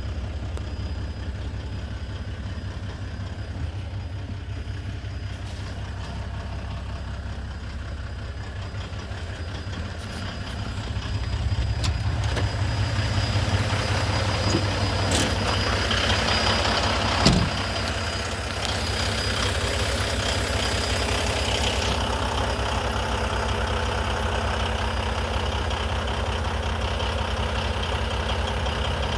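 Diesel engine of a 2016 Volvo VNL semi tractor idling steadily. It grows louder about ten seconds in, with one sharp click about seventeen seconds in.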